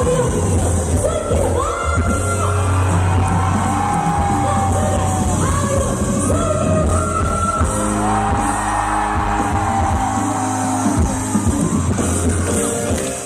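Live pop song: a woman sings long, held notes over a played-back backing track with a steady bass.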